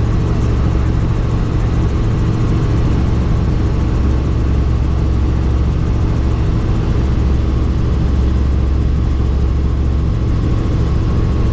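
Helicopter in steady flight, heard from the cabin with the doors off: a constant low rotor and engine drone with a rush of wind over it.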